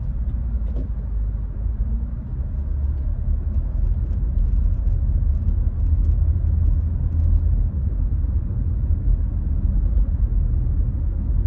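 Car driving at speed, heard from inside the cabin: a steady low rumble of engine and road noise that grows a little louder a couple of seconds in.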